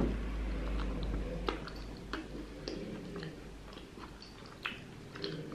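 A person biting into a soft sesame-seed-bun hamburger, then chewing the mouthful, with scattered small wet mouth clicks.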